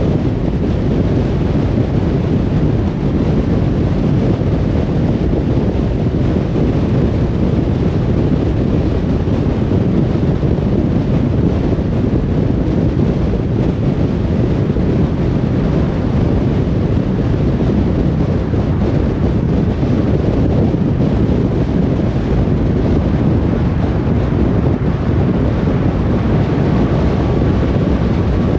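Steady low rumble of a car on the move: tyre and wind noise, even and unbroken.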